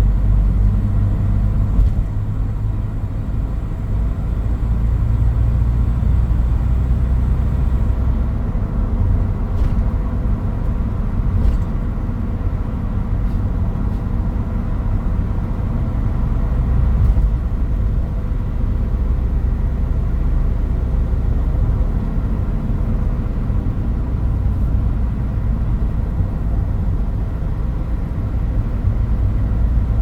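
Toyota Hilux Mighty-X pickup driving, its engine running with a steady low rumble of engine and road noise heard from inside the cab. The loudness dips briefly about two seconds in.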